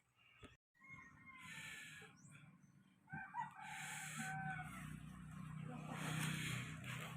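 An animal call, with arching tones that rise and fall starting about three seconds in, over a steady low hum.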